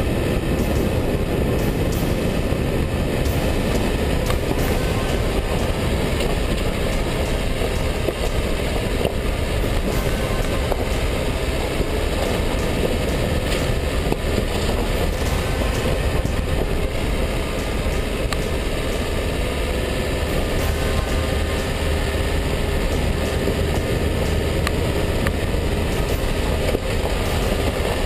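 Dacia Duster 1.5 dCi diesel driving, a steady mix of engine and road noise with a strong low rumble and scattered sharp clicks and knocks.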